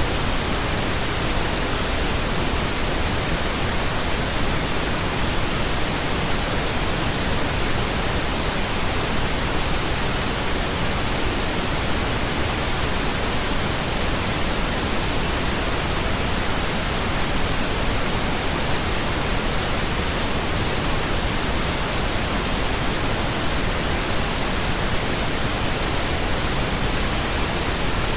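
Steady pink noise: an even, unchanging hiss spread across all pitches, with no rise, fall or break.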